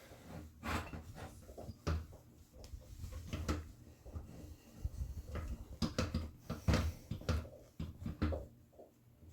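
A cloth towel wiping polish off a plastic headlight lens: irregular rubbing strokes mixed with soft knocks and handling bumps.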